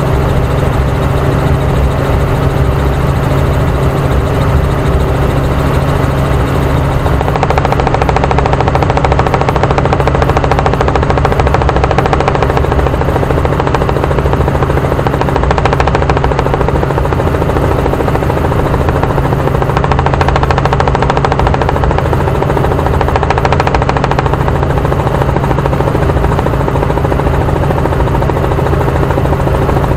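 Helicopter in flight, heard from on board: a loud, steady engine and rotor drone with a fast, even chop from the blades.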